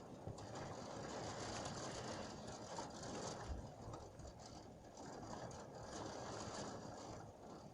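Heavy rain falling as a dense, even patter that swells, eases about four seconds in, swells again, then fades near the end.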